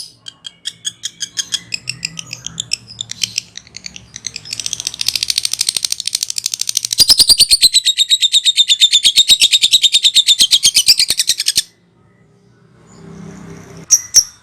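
Lovebird giving its 'ngekek', a long, rapid, high-pitched chattering trill. It starts as spaced chirps, speeds up and grows louder about four seconds in, runs for several seconds, and cuts off suddenly, with a short burst of calls near the end.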